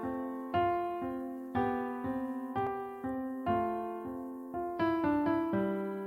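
Solo piano intro to a song: chords struck about once a second, each ringing and fading before the next, with a quicker run of notes near the end.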